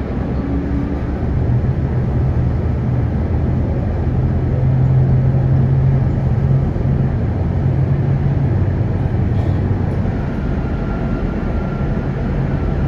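Tram running along its track, heard from on board: a steady low rumble of wheels on rails with a constant low hum underneath.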